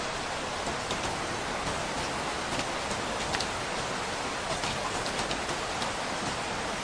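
Steady rain falling, an even hiss with scattered sharp taps of single drops.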